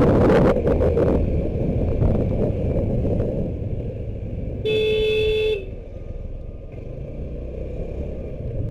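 Road and wind noise from a motorcycle on the move, with one steady vehicle-horn blast of just under a second about halfway through.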